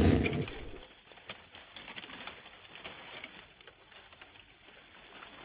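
The tail of a low lion roar dies away in the first half second. Quiet wildlife ambience with scattered short bird calls follows.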